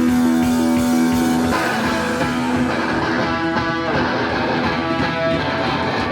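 Live band music with electric guitar to the fore. A held guitar chord changes about a second and a half in to busier playing.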